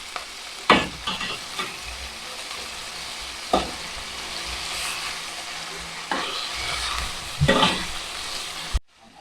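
Chicken pieces frying in hot oil in a pan with a steady sizzle while being stirred, the spatula knocking against the pan three times. The sizzle cuts off suddenly near the end.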